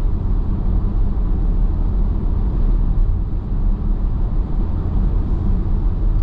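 Steady low tyre and road noise heard inside the cabin of an electric car cruising at highway speed.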